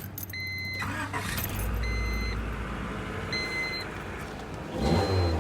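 A car's warning chime beeps at a steady pace, about every second and a half, while the wagon's engine comes up to a quiet idle through its newly repaired, shortened exhaust.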